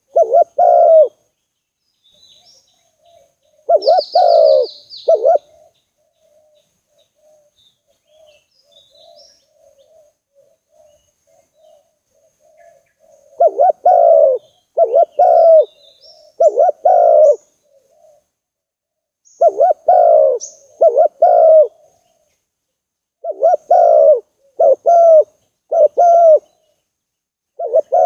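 Spotted dove cooing: repeated phrases of two to four deep hooting notes, in bouts a few seconds apart. Faint high chirps of small birds sound in the background.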